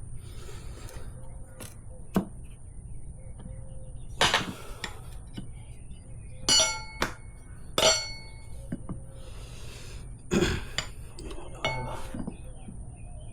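Metal tire levers clanking and clinking against a motorcycle wheel rim while a tire is levered on: about six separate knocks, a couple of them ringing.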